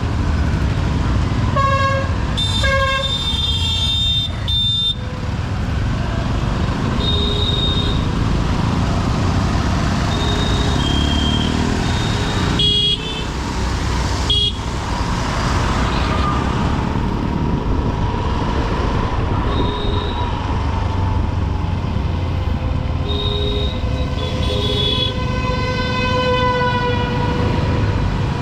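Dense city road traffic heard from a moving motorcycle: a steady low engine and road rumble with many horn toots from surrounding vehicles, some short and some held a second or two. Through the second half a long tone falls slowly in pitch.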